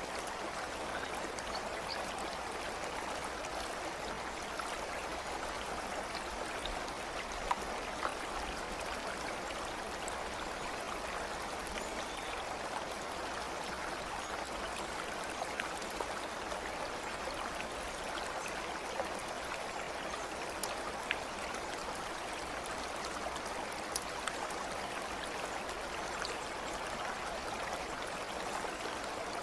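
A stream flowing steadily with an even rushing sound, broken by a few faint, scattered ticks.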